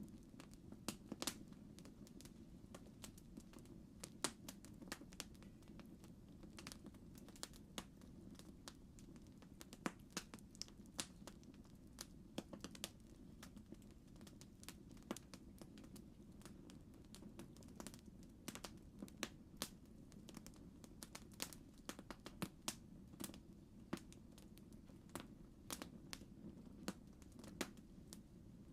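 Faint campfire crackling: irregular sharp pops and snaps over a steady low rumble.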